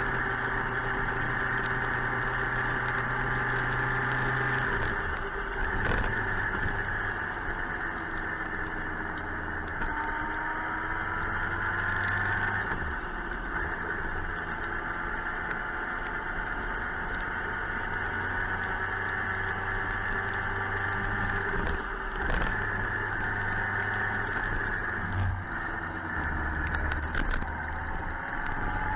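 Suzuki GSX-R 1000's inline-four engine running while under way, its pitch shifting and gliding up and down with throttle and gear changes, over a steady rush of wind noise. A few short knocks stand out.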